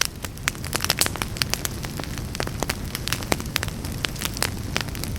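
Wood fire burning in a fireplace, crackling with many sharp irregular pops over a steady low rumble of the flames.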